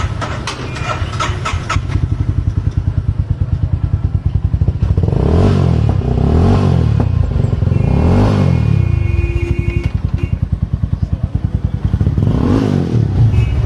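Jawa 42 FJ's single-cylinder engine running through its exhaust with the dB killer removed, giving a loud, even firing beat. It revs up and drops back several times, three times in quick succession in the middle and once more near the end.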